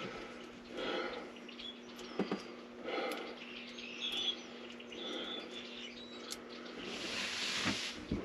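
Faint bird chirps over a steady low hum, with a few small clicks and a rustle that swells near the end.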